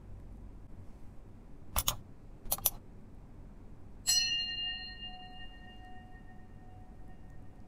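Two short mouse-click sound effects, then a single bell ding that rings on and fades over about three seconds: the click-and-notification-bell effect of a like-and-subscribe overlay.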